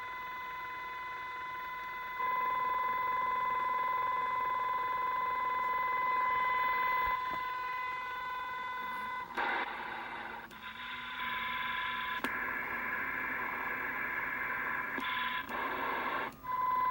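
Unidentified interference (QRM) received on the CB band at 27.395 MHz, heard through a CB radio's speaker: a steady tone with overtones that gets louder about two seconds in. About nine seconds in it breaks into rough, noisy stretches and shifting tones, and the steady tone comes back near the end.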